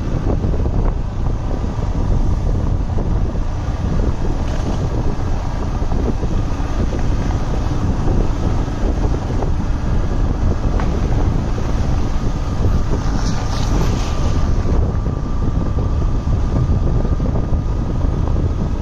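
Wind buffeting the microphone over the steady rumble of a moving vehicle driving along a road, with a brief hiss about thirteen seconds in.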